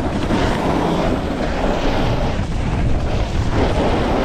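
Wind buffeting the microphone with a loud, steady low rumble, over the hiss and scrape of a snowboard sliding fast across snow.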